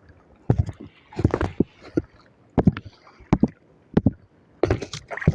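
Sea water splashing and slapping around a kayak, in short irregular bursts about every second.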